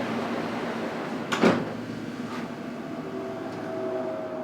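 Metropolitan line Underground train running, heard from inside the carriage: a steady rumble with one short, sharp knock about a second and a half in, and a faint steady whine in the last second or so.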